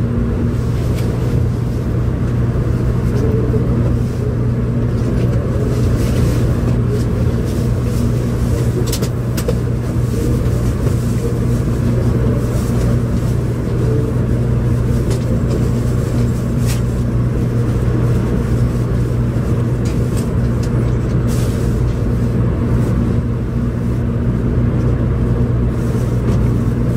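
700 Series Shinkansen train heard from inside the passenger car as it moves slowly along the station platform: a steady low hum with rolling rumble and scattered light clicks.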